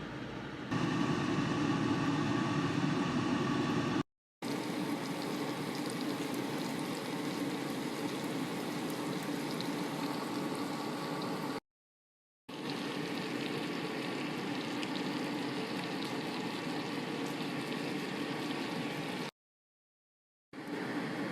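A pot of food boiling and bubbling on the stove, a steady bubbling hiss, broken three times by brief total silences where the footage is cut.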